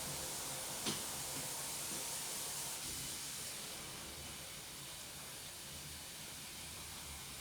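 Steady hiss of water running into an Indesit washing machine as it fills, with a small click about a second in and the hiss easing slightly partway through.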